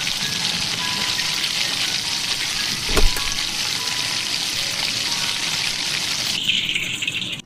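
Malpua batter frying in a pan of hot fat: a steady sizzle, with one short knock about three seconds in. The sizzle drops away near the end.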